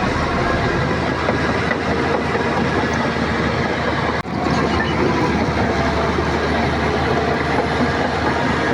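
Shantui crawler bulldozer working: its diesel engine runs steadily under load along with the noise of the machine moving. The sound drops out briefly about four seconds in.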